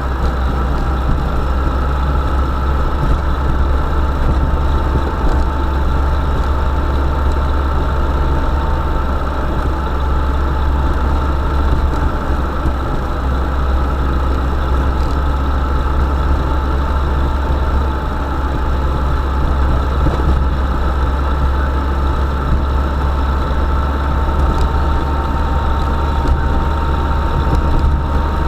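UAZ Bukhanka van's engine running steadily, a constant low rumble with a steady whine above it.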